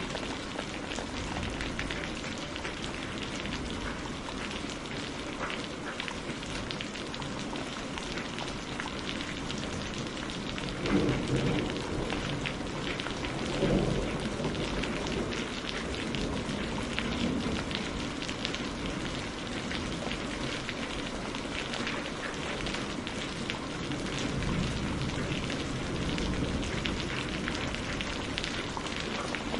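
Steady rain falling on a surface, dense with small sharp drop ticks, with two low rumbles swelling up about eleven and fourteen seconds in.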